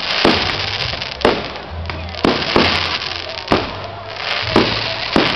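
Fireworks going off: a string of sharp bangs, about two a second, over continuous crackling.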